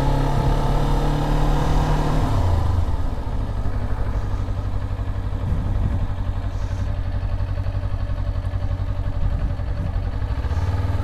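Motorcycle engine running at low revs while riding slowly. Its note drops after about two seconds, holds steady, and picks up slightly near the end.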